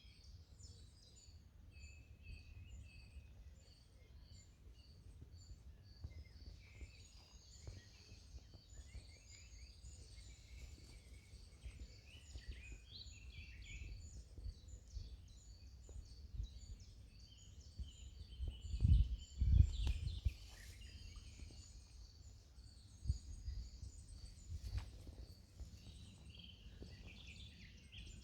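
Small birds chirping and singing in high, quick repeated notes, over a low rumble that swells into two loud bursts about two-thirds of the way through.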